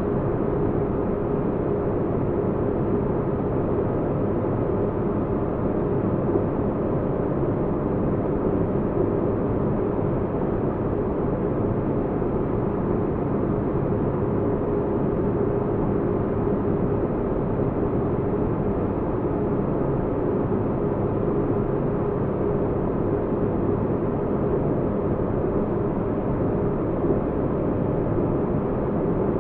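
Sci-fi spaceship interior ambience: a steady, deep rumbling hum, muffled, with a faint held tone in the low-mid range and nothing else changing.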